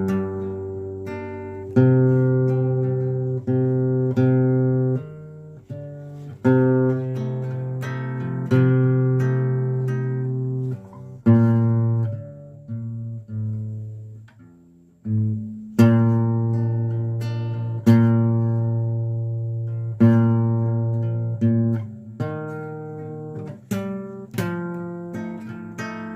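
Acoustic guitar playing a slow melody of plucked notes and chords, each note ringing out and fading.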